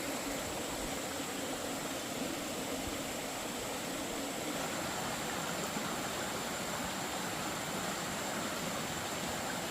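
Steady rushing noise with no distinct knocks or events, under a faint, thin, high steady tone.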